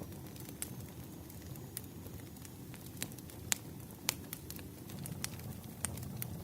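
Wood fire crackling: scattered sharp pops and snaps over a low steady rumble, the loudest pop about three and a half seconds in.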